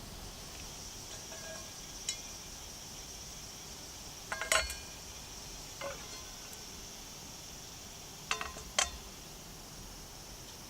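A handful of light metallic clinks with a short ring, like steel frying pans being set down or knocked against each other, coming singly and in pairs over a steady high-pitched insect drone.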